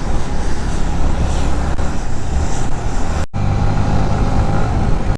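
Motorcycle engine running steadily while riding, under heavy wind noise on the microphone, with a brief sudden break a little over three seconds in.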